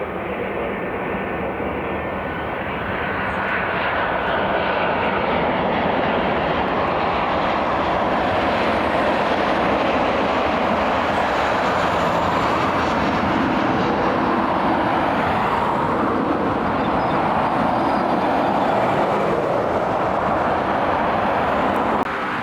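Airliner's engines passing close by: a steady, loud engine noise that grows over the first few seconds, holds, then cuts off suddenly near the end.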